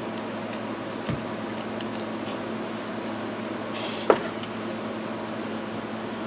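Steady hum of bench equipment with a low tone, over which small plastic switch parts are handled: a few light clicks, a soft knock about a second in, and one sharper click just after four seconds.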